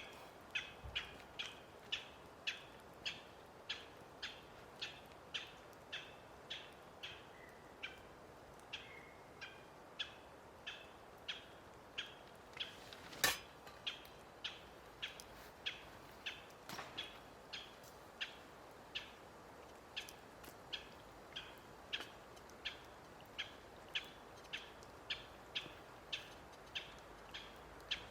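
A bird repeating one short, sharp call over and over, about twice a second, steady in rhythm. One louder sharp click or crack comes about halfway through.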